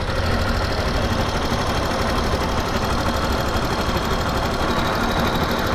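Yamaha Factor motorcycle's single-cylinder four-stroke engine running steadily, with a rattle that seems to be the cam chain and a light tick that seems to be the valves, which have never been adjusted in 55,000 km.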